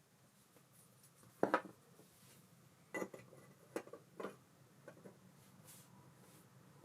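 Small metal parts of an Ambassadeur 5500C baitcasting reel clicking and clinking as they are handled on a workbench: a few separate sharp clicks, the loudest about a second and a half in and again at three seconds.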